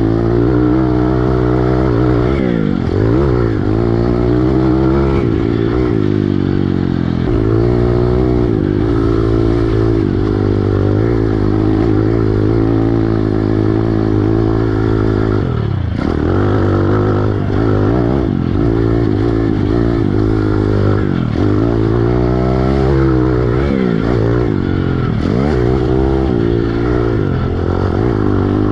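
Piranha 140 pit bike's small single-cylinder four-stroke engine being ridden hard. The revs repeatedly drop as the throttle is rolled off and then climb again, every few seconds.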